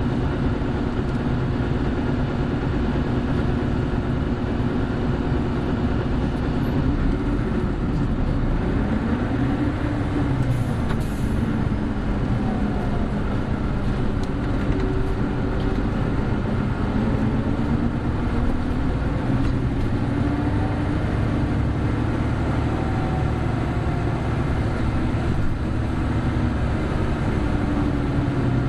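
Hino Blue Ribbon City Hybrid bus (BJG-HU8JLFP) under way, heard from inside the cabin: the diesel engine's note rises and falls several times as the bus accelerates and shifts through the gears, over steady road noise.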